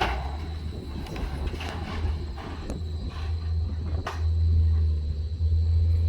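Engine of heavy machinery running steadily with a low rumble, getting a little louder about four seconds in, with a few scattered knocks and cracks.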